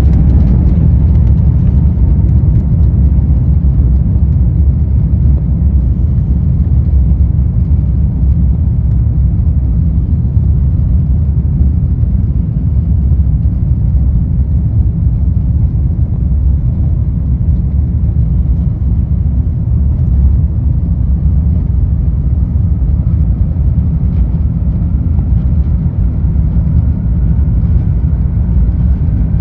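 Airbus A350-1000 cabin noise during the takeoff: the Rolls-Royce Trent XWB engines and the rolling airframe give a loud, steady low rumble. A faint whine slowly rises in pitch through the second half.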